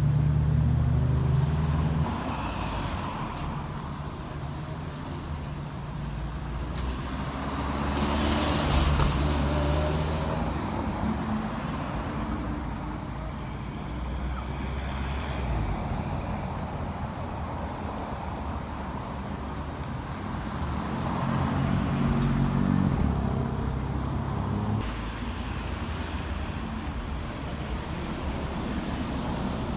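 Cars driving past on a street, one after another, each engine note swelling as it nears and fading as it goes. The loudest pass comes about eight seconds in.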